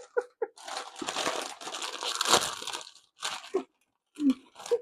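Crinkly plastic chip bag being handled for about two seconds, with a dense crackling rustle.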